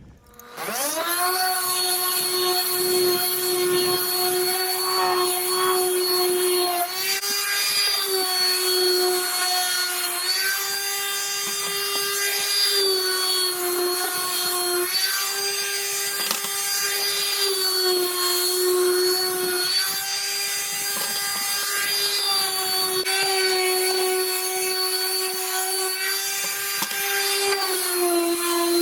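Electric power sander starting up about half a second in and running with a steady whine while sanding rough exterior wood; its pitch shifts slightly up and down several times.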